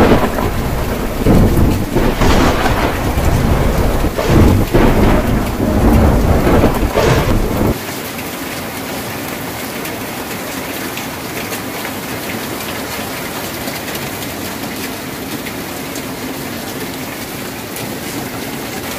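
Heavy rain on a tin roof with rolling thunder rumbling in repeated surges, which cuts off suddenly about eight seconds in; after that only the steady hiss of the rain remains.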